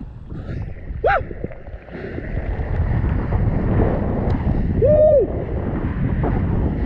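Strong wind buffeting an action camera's microphone while kiteboarding, a dense low rumble that builds about two seconds in. Two brief pitched whoops cut through it, a short one about a second in and a longer one near five seconds.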